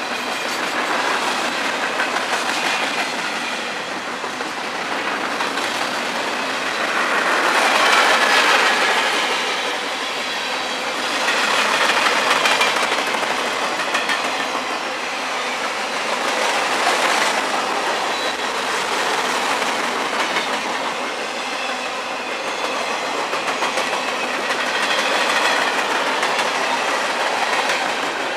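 Freight cars of a long mixed train (tank cars, covered hoppers, boxcars) rolling past at speed: steady clatter of steel wheels on the rails that swells and eases every few seconds as the cars go by.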